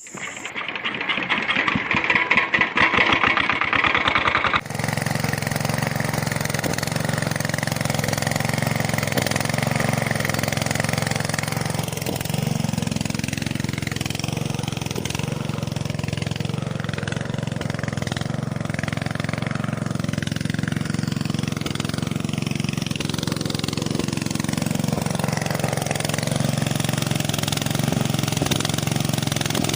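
Small engine running: a fast, even rattle for the first few seconds, then an abrupt change to a steady, even-pitched engine drone.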